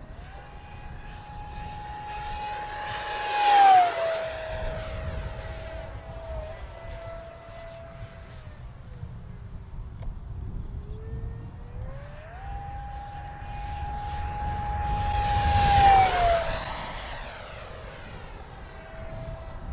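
Electric ducted-fan RC jet (a 6S-powered 70 mm EDF Sky Sword) whining past in two fast passes, each swelling to a loud peak as its pitch drops sharply while it goes by. Between the passes the whine sinks lower and fainter, then climbs again as the jet comes back round.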